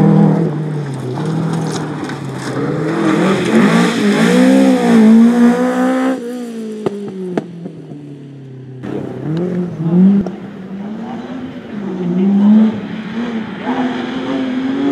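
Rally car engine under hard acceleration, its pitch climbing for a few seconds and then falling away, with a couple of sharp pops. Then the engine is revved up and down again through gear changes.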